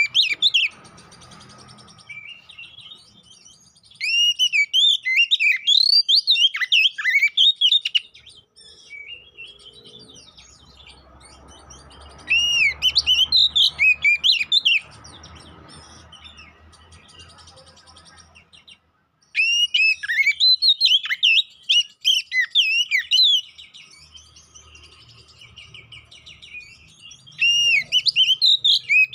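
Oriental magpie-robin (kacer) singing in loud bursts of rapid, varied whistled and scratchy phrases, each burst a few seconds long, with quieter pauses of faint chirping between them. It is the aggressive, fighting-style song of a male kacer.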